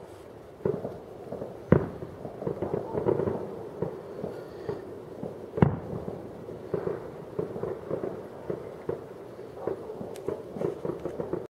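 Fireworks going off: continuous crackling and popping, with two louder bangs, one nearly two seconds in and one about halfway through.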